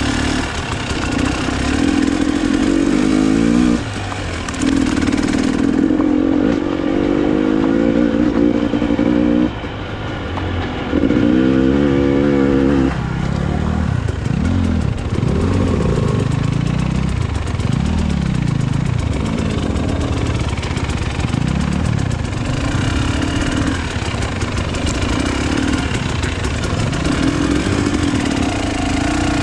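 Enduro motorcycle engine under way off-road, the throttle opening and closing. It is held steady with brief drops in the first part, then revs rising and falling again and again through the middle.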